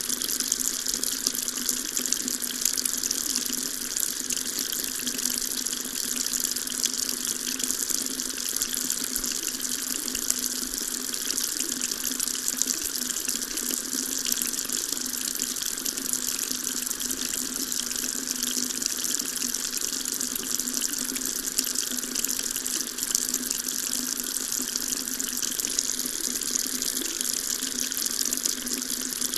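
Water tap running steadily, its stream splashing into a sink in an even, unbroken rush.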